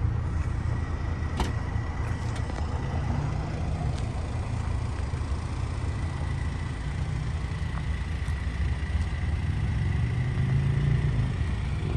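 Car engine idling with a steady low rumble. A faint steady high whine runs over it, and a single sharp click comes about a second and a half in.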